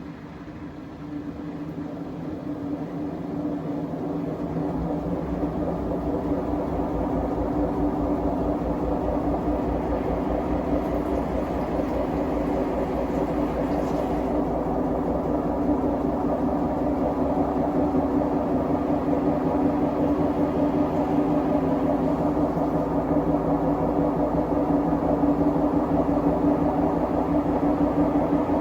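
Siemens WM14T490 washing machine running with its drum speeding up, a steady drone growing louder and a deep rumble coming in about five seconds in. The drum bearings are damaged.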